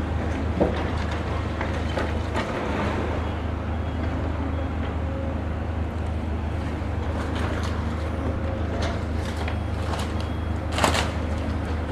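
Heavy demolition excavators' diesel engines running steadily, with scattered knocks and crunches of the building being broken down. There is a sharp knock just after the start and a louder crash near the end.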